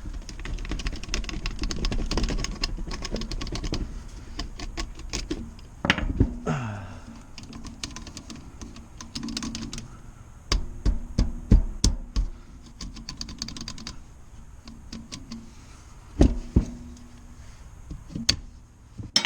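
Hand tools working on a blower motor's mounting hardware: a run of rapid metallic clicks in the first few seconds, then scattered sharp metal knocks and clunks.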